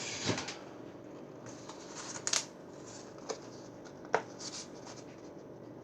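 Scattered light clicks, taps and brief rustling of kitchen items being handled, a sharp click about two seconds in the loudest.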